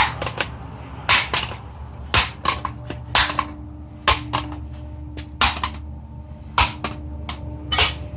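A mallet striking a broken device repeatedly, about eight sharp blows roughly a second apart, with smaller knocks in between.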